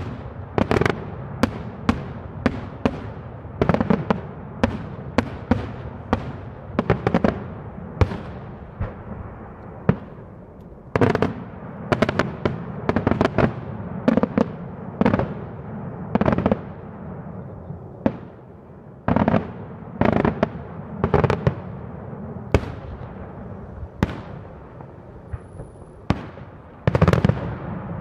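Daytime aerial fireworks: shells bursting overhead in an irregular run of sharp bangs, one to several a second, each with a short echo, and a louder cluster near the end.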